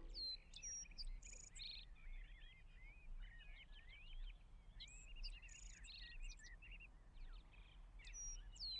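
Faint birdsong: small birds chirping and twittering in short runs of chirps and quick rising and falling notes.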